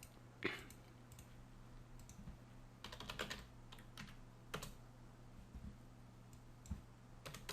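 Faint computer keyboard keystrokes, scattered: one about half a second in, a quick run near three seconds, a few more around four seconds and one near the end, over a steady low hum.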